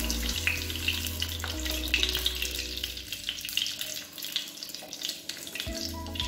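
Raisins sizzling and crackling in hot ghee in a nonstick frying pan, with a wooden spatula working them out of the pan. The crackle thins a little after about three seconds as the pan empties.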